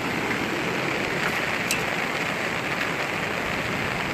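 Steady rain falling and hitting surfaces, an even hiss at a constant level, with one sharp tick a little under two seconds in.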